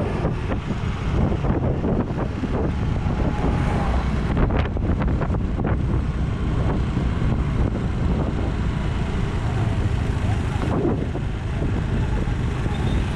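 Wind buffeting a moving action camera's microphone, a steady low rumble, with vehicle and road noise underneath.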